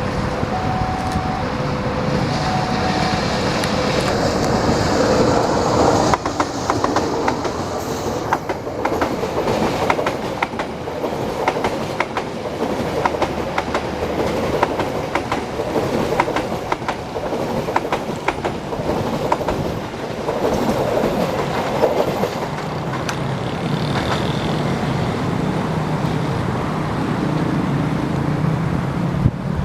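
Serayu passenger train passing close by, its wheels clattering rhythmically over the rail joints. For the first few seconds a two-tone level-crossing warning signal beeps in short pulses.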